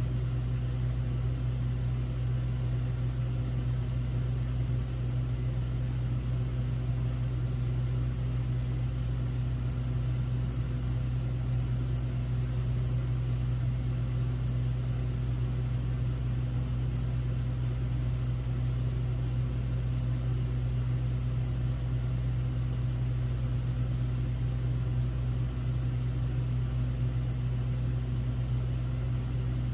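Hotel room air conditioner running steadily: a low, even hum with a soft airy rush over it.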